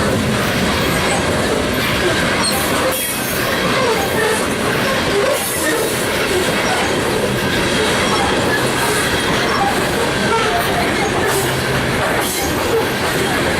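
Loaded coal gondolas of a freight train rolling past, a steady din of steel wheels on rail with short scattered squeals.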